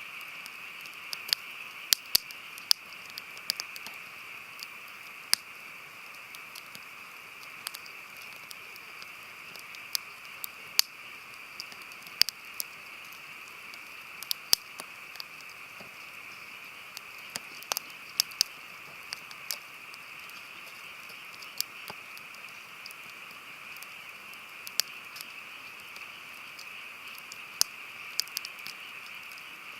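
Wood burning in a campfire, crackling with irregular sharp pops, some of them loud, over a steady hiss.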